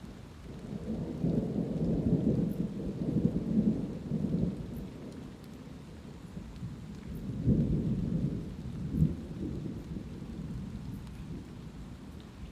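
Light rain falling steadily, with two long, low rolls of thunder. The first rumble builds about a second in and lasts several seconds; the second swells a few seconds later.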